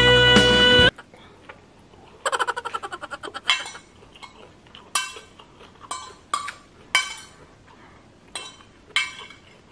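Background music with singing cuts off about a second in. Then a metal fork clinks and scrapes against a plate: a quick rattling run of clicks about two seconds in, then single sharp clinks roughly once a second.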